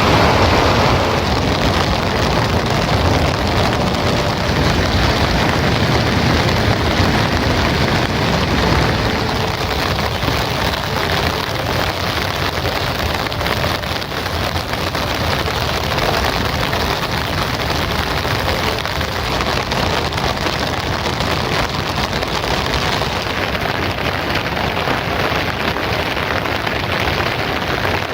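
Heavy rain falling steadily, a dense even hiss of drops, a little fuller and louder for the first several seconds.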